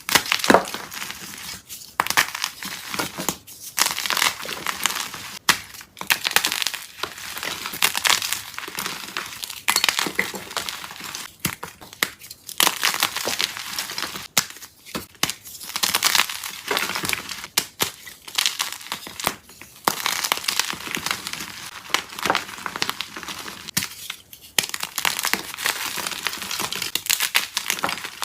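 Soft dyed chalk being crushed: a run of crunchy, crumbling crackles coming in bursts every second or two.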